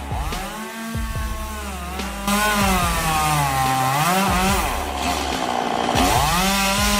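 Chainsaw running, its engine pitch rising and falling as the throttle and load change. About two seconds in it gets louder and harsher as the chain works through wood.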